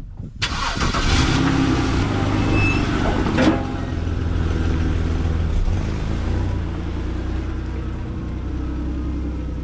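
BMW X3's engine starting about half a second in, then idling steadily, a little louder for the first few seconds before settling. It is being warmed up to check the refilled cooling system for a leak.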